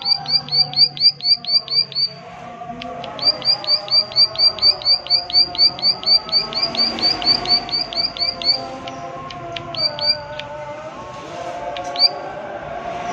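A prinia (prenjak) giving its 'klik klik' call: fast runs of sharp clicking notes, about seven a second, one run breaking off about two seconds in and a longer one starting a second later, then a few single notes near the end. Lower steady tones sound underneath.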